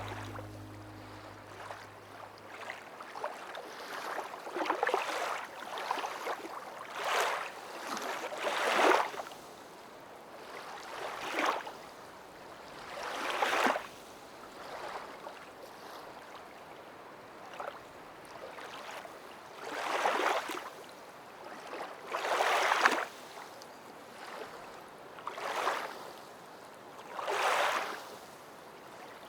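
Water washing in repeated rushing surges, one every two to three seconds, each swelling up and fading away within about a second.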